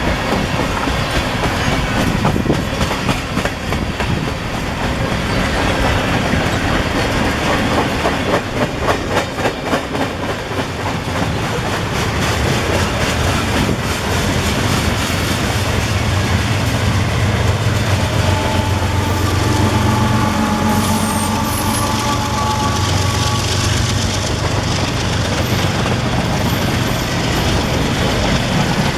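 A CSX manifest freight train rolling past, its car wheels clacking rapidly over rail joints. About halfway through, a steadier low hum with some higher tones joins in for several seconds.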